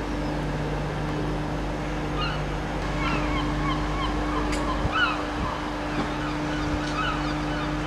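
Gulls calling repeatedly in short cries over a steady low engine drone.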